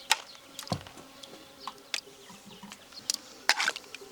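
Scattered light clicks and knocks, as of objects being handled and set down. One has a dull low thump under a second in, and there is a quick cluster of clicks about three and a half seconds in.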